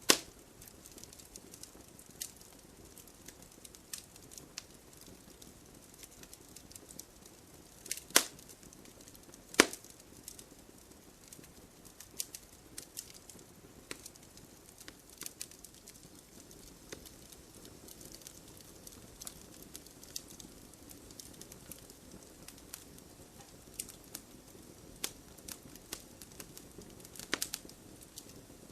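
Wood fire crackling: scattered sharp pops and snaps over a low steady hiss, with the loudest pops about a third of the way in and another near the end.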